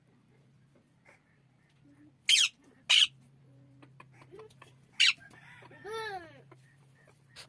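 Parrot squawking: three short, loud, raspy squawks about two, three and five seconds in, then a longer call that rises and falls in pitch, over a faint low hum.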